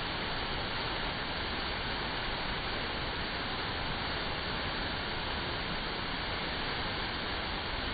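Artificial waterfall: water pouring steadily into a pond, an even rushing noise that does not change.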